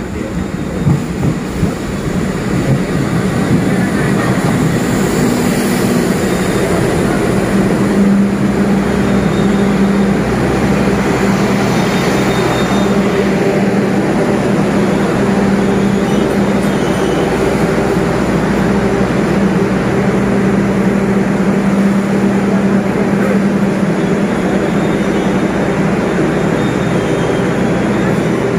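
Jayakarta Premium diesel passenger train pulling in alongside the platform: a steady engine drone and low hum with the coaches rolling past, growing louder over the first few seconds.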